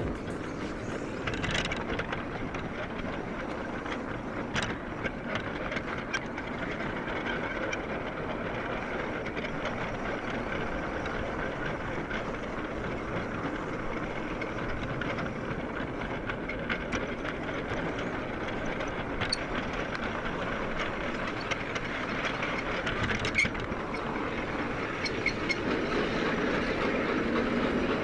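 LGB garden railway model train running along its track: a steady rumble of wheels on rail with scattered sharp clicks, growing a little louder near the end.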